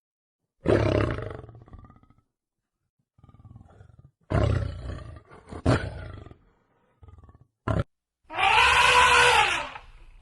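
Animal calls: a string of separate loud calls with short silences between them, ending in a longer pitched call about eight seconds in.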